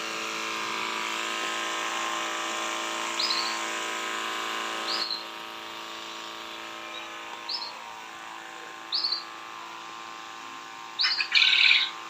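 An aviary's artificial-rain sprinkler switched on: its electric water pump runs with a steady hum under the hiss of the spray, and the highest part of the hiss drops away about five seconds in. Over it come short rising bird chirps every second or two, with a louder burst of calls near the end.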